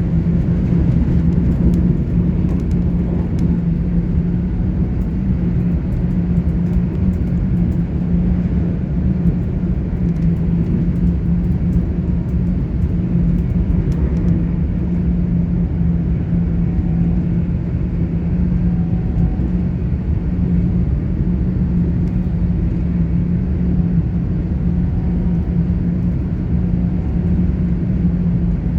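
Inside a GWR Class 800 IET train running steadily along the line: a continuous low rumble of wheels on rail with a steady low hum over it.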